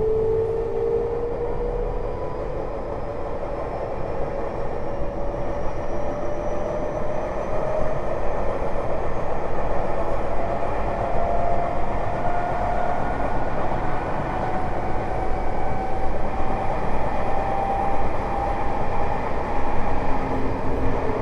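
Tokyo Metro 05 series train with Mitsubishi IGBT inverter traction, heard from inside the car. The motor whine rises slowly and steadily in pitch as the train gathers speed, over continuous wheel and rail rumble. Near the end the rising whine fades out.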